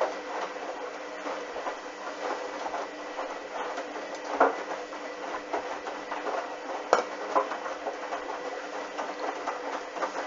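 Hoover washing machine in its wash cycle, its drum turning over a sudsy load with a steady motor hum and whine. Irregular clicks and knocks come from the tumbling, with two louder knocks about four and a half and seven seconds in.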